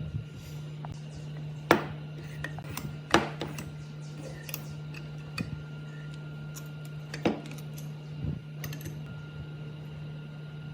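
Metal parts being handled on a workbench: a few sharp metallic knocks and clinks, the loudest about two seconds in, again about three seconds in and near seven seconds, over a steady low hum.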